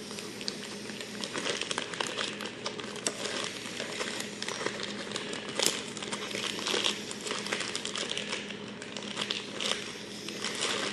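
Plastic packaging crinkling and rustling as kit parts are packed back into their box, with scattered small clicks and taps.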